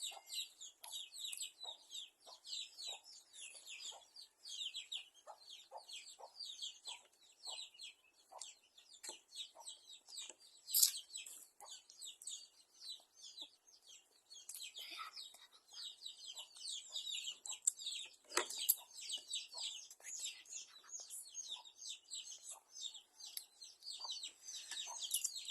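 Birds chirping in a dense, continuous chorus of short high-pitched calls, with chickens clucking among them and one sharper, louder sound about eleven seconds in.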